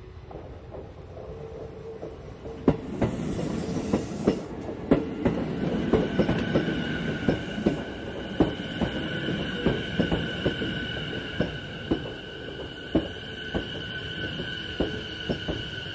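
Sotetsu 12000 series electric train rolling slowly past at track level: a rumble that builds about two and a half seconds in, with sharp wheel clacks over rail joints roughly once or twice a second. From about six seconds in, a steady high-pitched whine sits over it.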